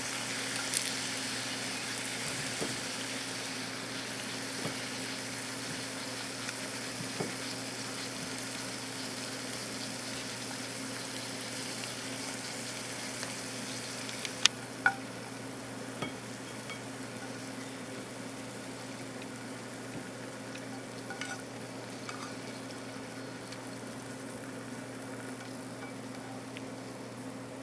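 Pieces of sweet potato sizzling in a pan, a steady hiss with a few sharp clicks about halfway through, the sizzle easing slightly after them.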